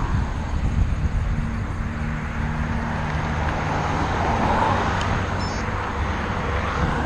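Wind rumbling on an action-camera microphone during a bicycle ride, with road traffic passing; one vehicle's tyre noise swells and fades about four to five seconds in.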